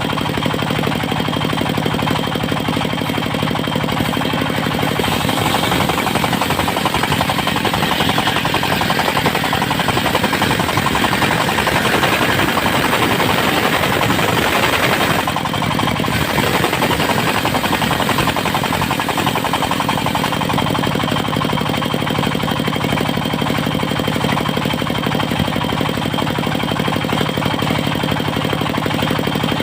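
Diesel engine running steadily, driving a circular sawmill blade. From about five seconds in, the blade cuts into teak wood and adds a louder, noisier cutting sound. That sound stops abruptly about halfway through, leaving the engine running alone.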